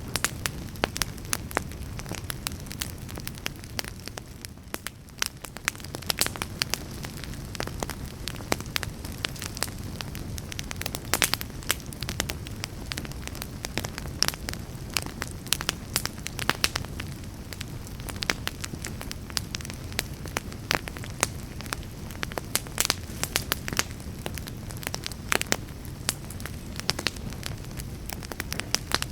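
Wood fire burning in a fireplace, crackling and popping irregularly over a soft low rumble of flame.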